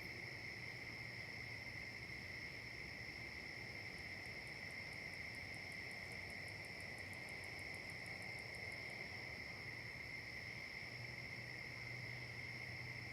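Steady, continuous chorus of insects singing, with a second, higher-pitched insect adding a fast pulsing trill for a few seconds in the middle.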